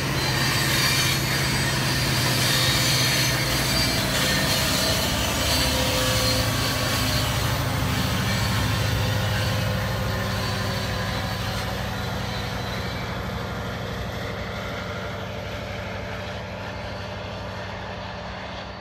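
Freight train of sulphur gondolas rolling past, with steel wheels running on the rail and a diesel locomotive's engine humming, the sound fading gradually as the train moves away.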